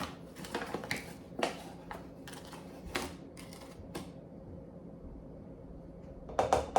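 Light, irregular clicks and taps of kitchen utensils and containers as flour is measured out for the pie's dry mix. They come mostly in the first four seconds, then pause, with a few more near the end.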